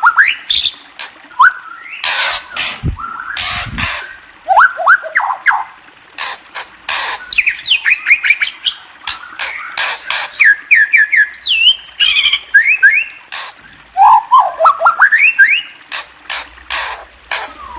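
Murai songbird calling: runs of quick rising whistled notes, mixed with harsh chattering squawks and clicks. There is a brief low thud about three seconds in.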